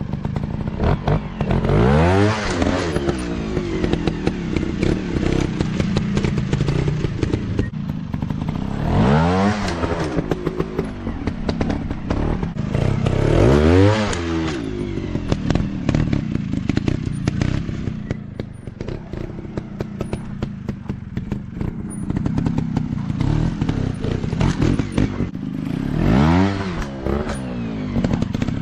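Dirt bike engines running with repeated revs, the pitch climbing and falling back about four times, over a steady rough idle and clattering.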